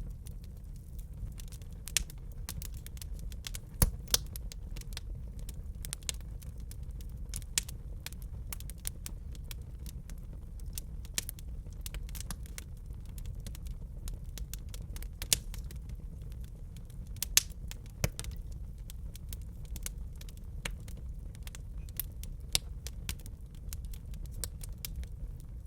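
Wood fire burning in a fireplace: a steady low rumble of the flames with irregular crackles and a few sharper pops from the burning logs.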